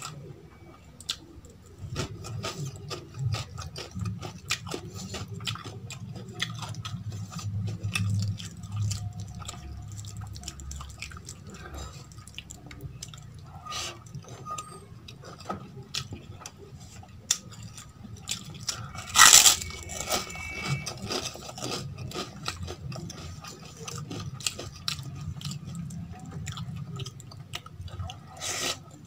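Close-miked eating sounds: wet chewing and mouth clicks from mouthfuls of rajma and rice eaten by hand, with fingers scraping rice on a steel plate. There is one louder crunching burst about two-thirds of the way through.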